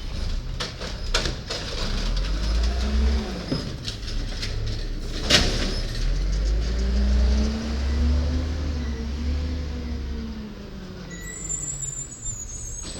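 Garbage truck engine revving up and easing back down twice, with one sharp bang about five seconds in and a faint high squeal near the end.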